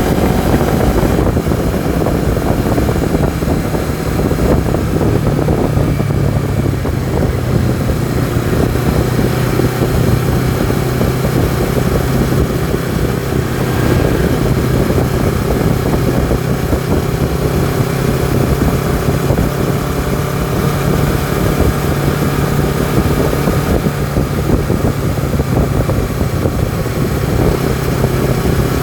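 Honda CBR250RR's parallel-twin engine and exhaust running under way at fairly steady revs.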